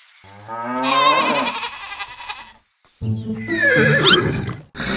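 A horse whinnying: two long calls, each with a trembling pitch, the second falling in pitch.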